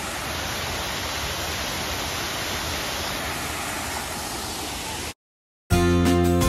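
Steady rush of a waterfall, an even roar of falling water that cuts off abruptly about five seconds in. Background guitar music starts near the end.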